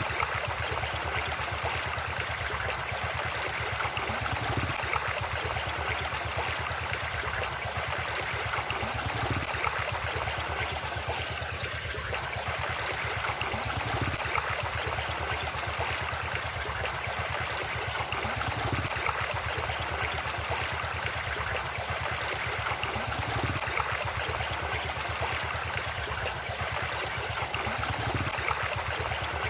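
A river flowing steadily: a continuous rush of running water.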